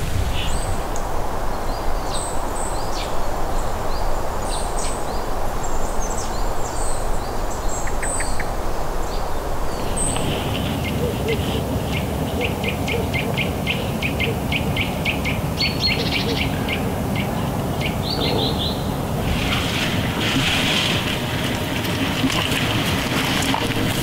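Wild birds chirping and calling over a steady rushing background. About ten seconds in the ambience changes, and a bird repeats a short call rapidly, about four times a second.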